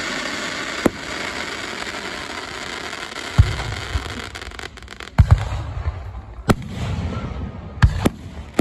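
Aerial firework shells bursting: about eight sharp bangs, most in the second half and some in quick pairs, over an even hiss that fades out about halfway through.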